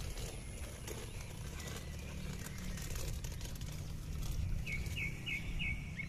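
Open-field ambience with a steady low rumble. Near the end a bird calls a quick run of about five short chirps, a few per second.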